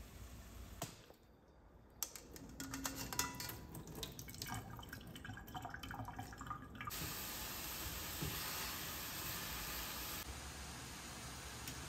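Kitchen clatter of a pan and utensils, then from about seven seconds in a steady sizzle of diced onion and carrot frying in a copper sauté pan on a gas hob.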